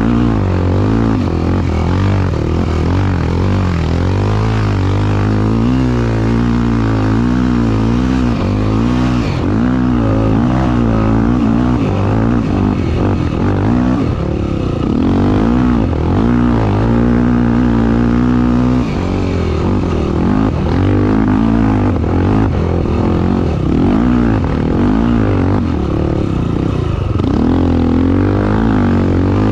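Honda XR250 Tornado motorcycle's single-cylinder four-stroke engine revving hard and continuously, its pitch rising and falling over and over with throttle and gear changes while racing on sand.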